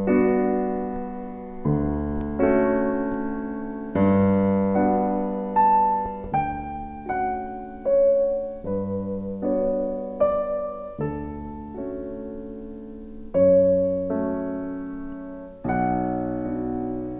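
Background piano music: slow chords and notes struck one after another, each dying away.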